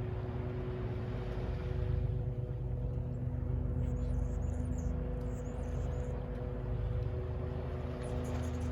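Distant city traffic making a steady low rumble, with a constant hum of a few steady tones over it. Faint short high chirps come in the middle and again near the end.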